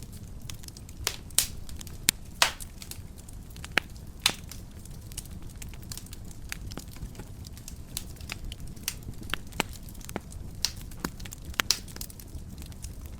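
Wood fire in a fireplace crackling, with sharp irregular pops and snaps over a low steady rush of the flames; a few louder pops about one and a half, two and a half and four seconds in, and again near the end.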